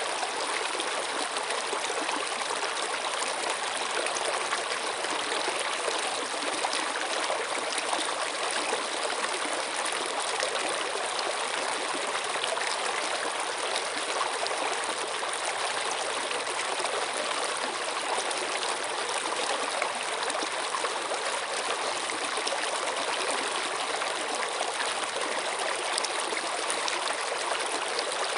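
Running water of a stream, a steady rushing and trickling with no change or break.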